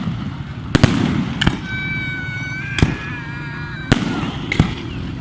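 Fireworks display: about five sharp bangs of aerial shells bursting a second or so apart, over a steady low rumble, with a high whistling tone in the middle.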